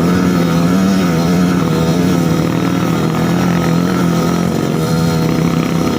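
Trail motorcycle engine running at a steady, slightly wavering speed.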